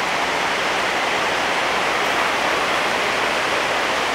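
Fast-moving floodwater rushing steadily, an even continuous noise.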